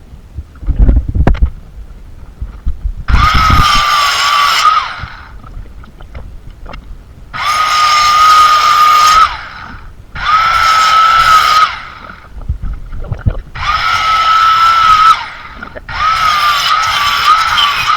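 Electric power tool run in five short bursts of about two seconds each: a steady whine over a hiss, dropping in pitch as each burst stops. A few low thumps come about a second in.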